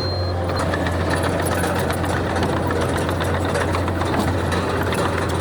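Heavy diesel engine of earthmoving machinery running steadily, with a constant low hum and dense mechanical rattle.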